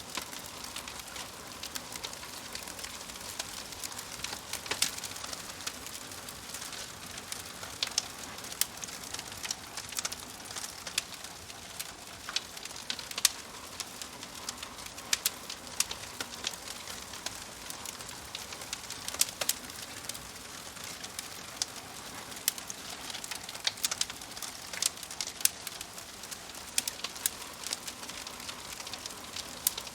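Wood fire crackling in a fireplace: a steady hiss with irregular sharp pops and snaps from the burning logs, several each second.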